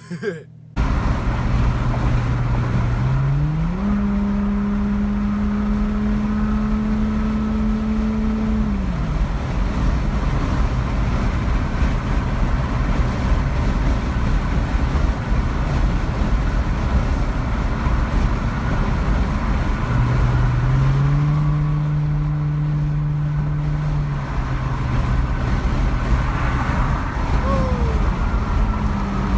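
A car engine running at idle and twice revved up and held at high revs for several seconds before dropping back, over a steady loud bed of engine and crowd noise.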